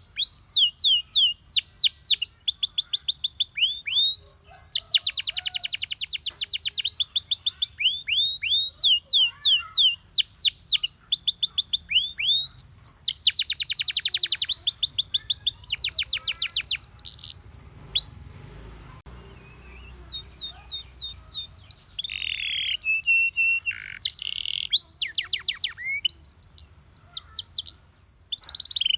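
Domestic canary singing: long, fast trills of rapidly repeated sweeping notes, with a short pause a little past the middle before varied rolls and calls resume.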